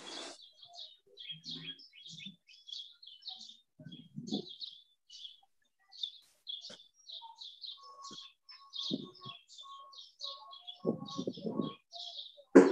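Small songbirds chirping, a quick, continuous run of short high chirps, with a row of lower whistled notes repeating in the second half. A brief loud noise cuts in right at the end.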